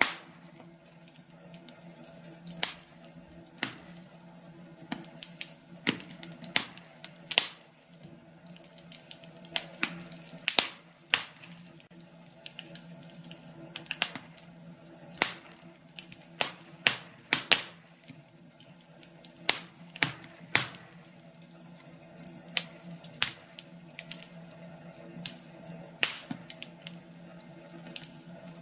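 Wood fire in a fireplace crackling, with irregular sharp pops and snaps from the burning logs over a steady low hum.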